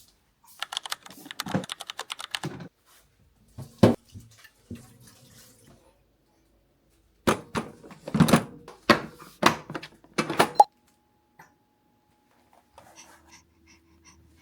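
A run of quick clicks and knocks of things being handled in a small room, with one louder knock about four seconds in and a second cluster of knocks a few seconds later.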